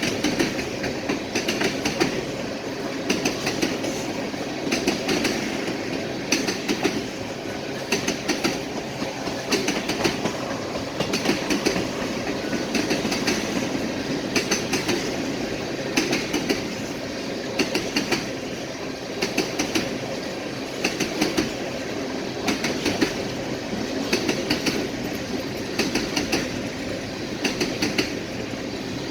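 Loaded tank cars of a freight train rolling past, their wheels clicking over rail joints in regular groups every second or two above a steady rumble.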